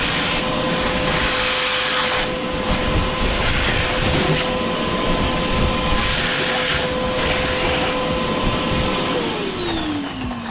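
Vacuum cleaner running steadily with a high motor whine and rushing suction air, vacuuming contaminant out of an opening in the car. Near the end it is switched off and the whine drops in pitch as the motor spins down.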